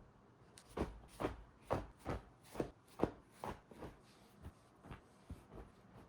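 Soft footsteps indoors, about two steps a second and growing fainter, as of someone walking away.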